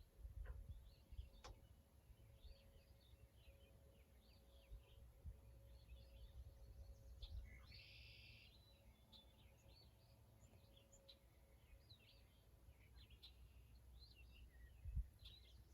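Faint birds chirping: short calls repeat all through, with a brief denser burst about halfway, over a low steady rumble.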